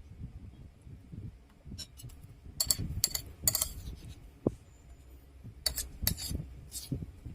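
Close-miked eating sounds: steady chewing, with two clusters of sharp clinks of cutlery against a plate.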